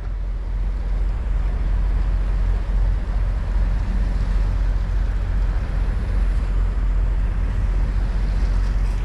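Steady low rumble of an idling diesel semi-truck engine, with wind noise on the microphone.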